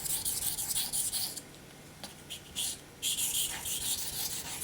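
Knife blade stroked back and forth across an 800-grit Naniwa Chosera waterstone in repeated rasping strokes. The strokes pause about a second and a half in, with a couple of short scrapes, and resume about three seconds in.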